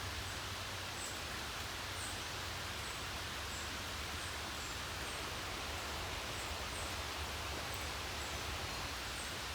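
Steady rain falling, an even hiss. Faint short high chirps sound over it, roughly once or twice a second.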